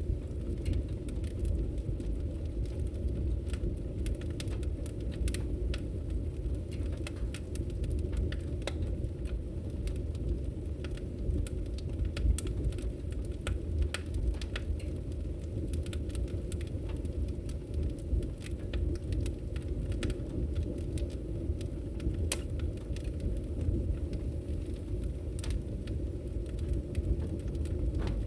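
Wood fire in a fireplace crackling: frequent sharp, irregular pops and snaps over a steady low rumble of the burning.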